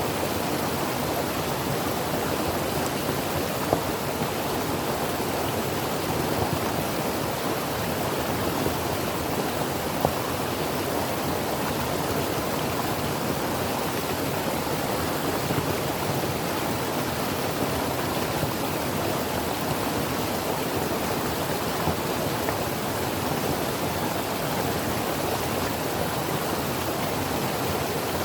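A creek running steadily over rocks, an even rushing and burbling of water with a few small splashes.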